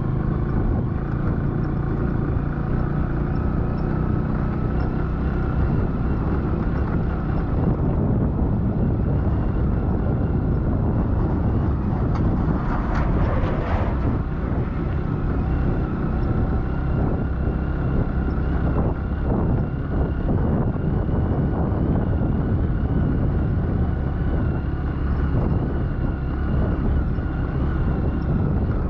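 A vehicle travelling along a road: steady engine and road noise, with a brief louder rush about halfway through.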